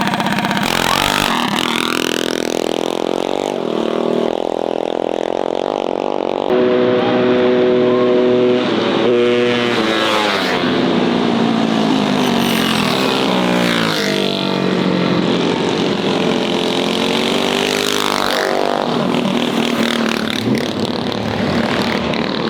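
Small mini bike engines running and revving, the pitch rising and falling several times as the throttle opens and closes, with a steadier high-revving stretch around the middle.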